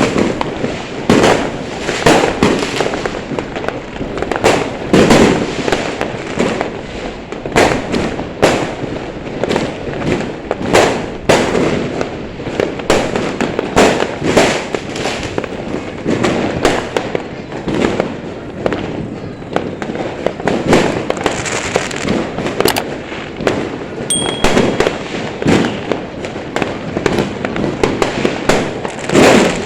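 Fireworks going off in a continuous, irregular barrage of sharp bangs, several a second, each with a short echo.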